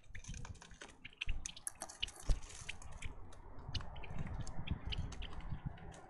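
Birds pecking and cracking seed at a feeder close to the microphone: quick irregular clicks and taps with soft low thumps, the strongest thump about two seconds in.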